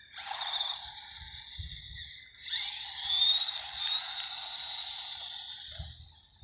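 Small RC truck's electric motor whining as it drives, with a rushing noise under it. It runs in two bursts: a short one, then after a brief pause a longer one in which the whine rises as it speeds up.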